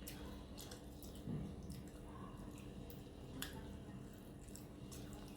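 Close-up eating sounds: scattered wet clicks and smacks of chewing on a mouthful of curry and rice, with a soft low thump about a second in.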